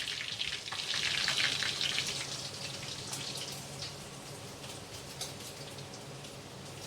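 Duck pieces frying in hot oil in a pan: a steady sizzle with scattered pops, louder for the first couple of seconds and then settling to a softer hiss. The duck is fried golden and cooked through.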